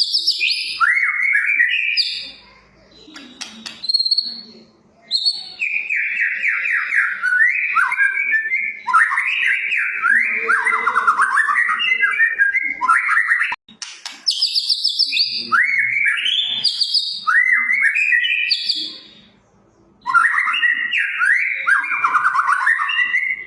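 White-rumped shama (murai batu) singing vigorously, a loud, varied song of rapid whistled phrases sweeping up and down, in bursts of several seconds broken by short pauses.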